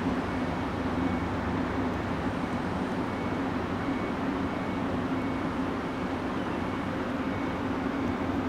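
Steady low engine drone with rushing noise, unchanging in level, with a faint intermittent high tone in the background.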